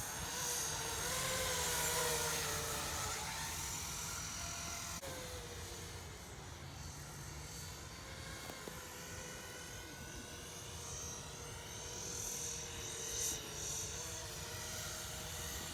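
Small FPV quadcopter's motors and propellers whining in flight, the pitch wavering up and down with the throttle.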